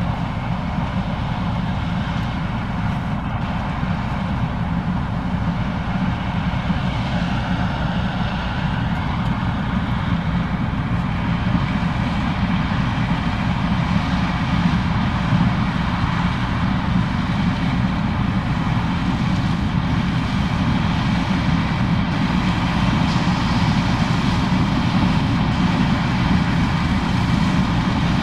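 Case IH 2366 combine running steadily while harvesting corn: a continuous deep engine and machinery drone, growing a little louder toward the end.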